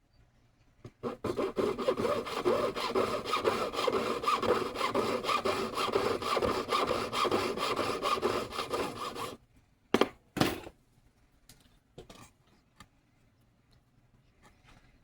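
Jeweler's saw cutting metal in fast, even back-and-forth strokes for about eight seconds, then stopping. Two sharp knocks follow, then a few light taps.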